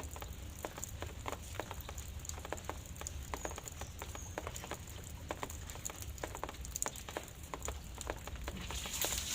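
Drizzle: irregular drops pattering and dripping onto surfaces over a steady low rumble, with a louder hiss coming in near the end.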